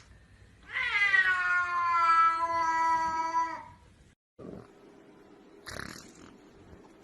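A cat giving one long, drawn-out meow of about three seconds, dipping slightly in pitch at the start and then held steady. A faint hum and a brief rustle follow.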